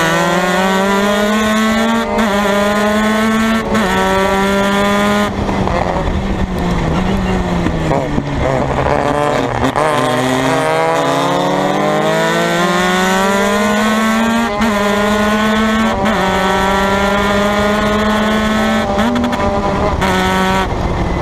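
Formula Mazda race car's rotary engine at racing speed. It revs up through the gears with quick upshifts in the first few seconds, then its pitch falls for several seconds as the car slows for a corner. It accelerates again, holds high revs, and eases off near the end.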